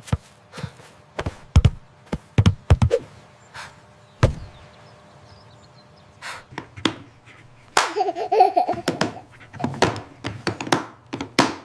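A string of sharp thuds, a football being kicked and bouncing, uneven in spacing. A short burst of laughter about eight seconds in.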